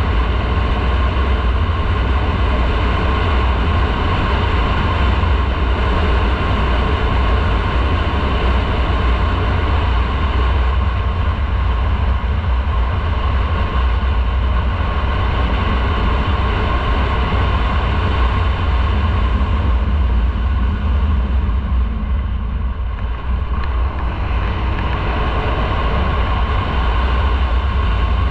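Motorcycle running steadily under way, with a heavy low wind rumble on the microphone. It eases off briefly about three-quarters of the way through, then picks up again.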